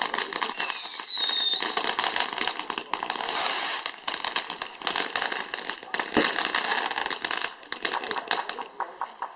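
Fireworks going off: a whistle falling in pitch about half a second in, then dense rapid crackling and popping with a short hiss, thinning out and quieter near the end.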